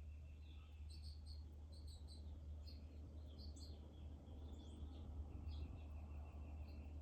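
Several small songbirds chirping, with many short high chirps and two longer trills, one near the start and one in the second half. A faint steady low rumble runs underneath.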